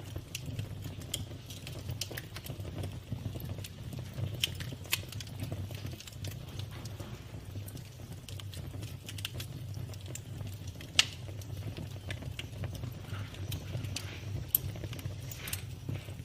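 Campfire of burning wood crackling, with irregular sharp pops and snaps, a louder pop about eleven seconds in, over a steady low rumble.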